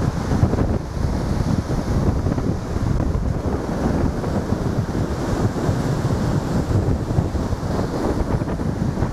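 Strong sea wind buffeting the camera microphone with a heavy low rumble, over large storm waves breaking on the shore.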